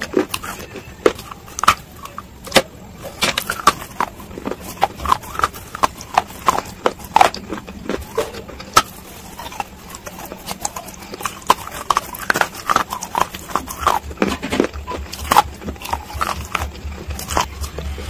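Close-miked chewing of crunchy baked clay coated in wet paste: irregular sharp crunches and wet mouth clicks, several a second.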